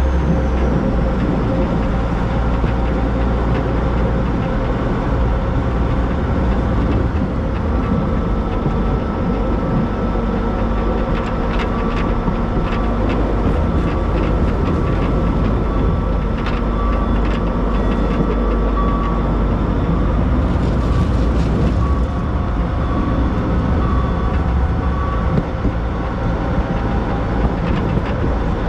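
Narrow-gauge steam train running along the track, with a steady rumble and hiss. A run of sharp clicks comes about halfway through as the wheels cross rail joints.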